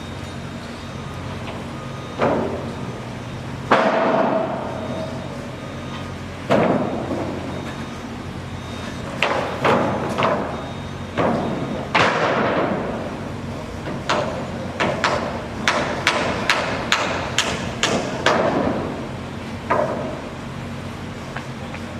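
Construction work: a series of irregular knocks and thuds, sparse at first and coming thick and fast after about nine seconds, over a steady low machine hum.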